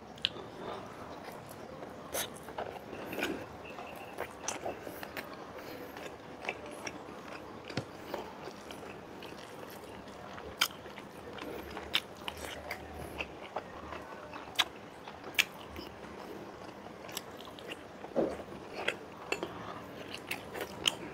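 Close-up chewing of milkfish and rice eaten by hand, with irregular sharp mouth clicks and smacks.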